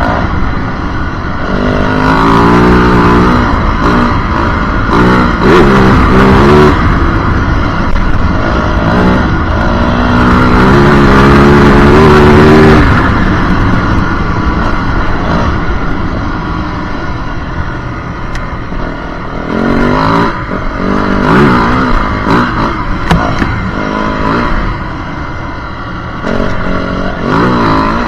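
Yamaha WR450F dirt bike's single-cylinder four-stroke engine being ridden hard, revving up and dropping off again and again as the throttle is worked. The longest high-rev pull comes around the middle. It eases off for several seconds before more rising pulls near the end.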